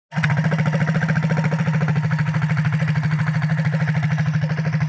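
Minibike engine idling steadily, a fast even putter at a constant pitch, starting abruptly as the sound cuts in.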